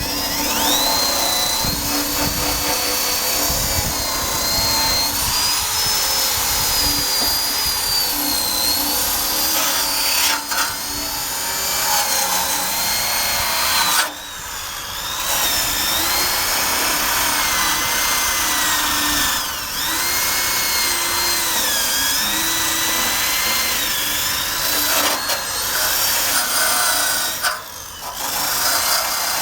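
Electric drill spinning a wire brush against the steel frame, a steady grinding whine whose pitch sags and recovers as the brush is pressed in. It stops briefly about halfway through and again near the end.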